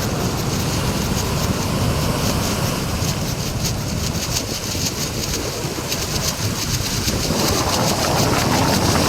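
Heavy storm surf breaking and rushing against the shore under strong wind, with gusts buffeting the microphone in a low rumble. The wash of the waves swells louder near the end.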